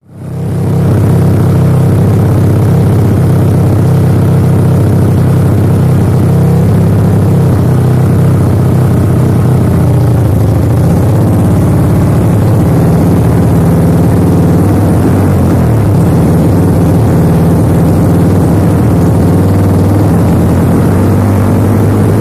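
Single-cylinder engine of a Kawasaki KLX trail bike running steadily at idle through an Over Racing aftermarket exhaust. It fades in within the first second, then holds at an even pitch.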